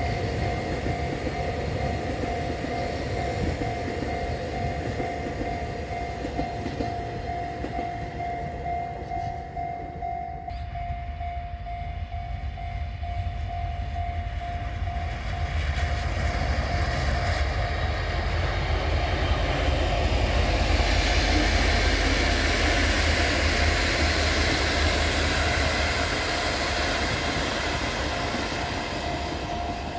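Train running past: a passing multiple-unit train's wheel and rail noise, then after a break a locomotive-hauled train approaching and going by. Its low rumble and rail hiss grow to a peak a little past the middle and fade towards the end. A steady high tone runs underneath throughout.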